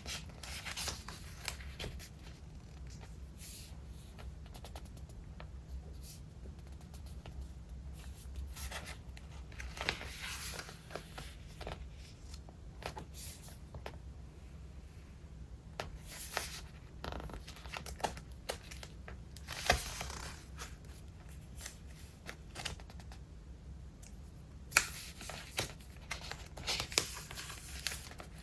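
Pages of a thick, collage-filled Traveler's Notebook being turned and handled: irregular paper swishes and crinkles with a few sharp taps, over a faint low hum.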